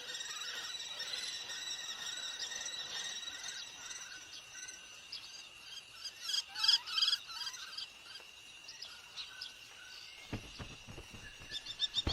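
Small birds chirping and twittering in many short repeated notes, with a louder burst of several calls about six seconds in. Low rhythmic beats of music start near the end.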